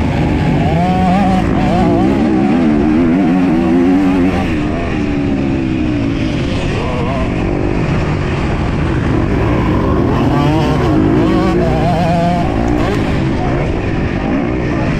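Motocross dirt bike engine revving hard, its pitch rising and falling over and over as the bike is ridden round the track, with two stronger surges of revs.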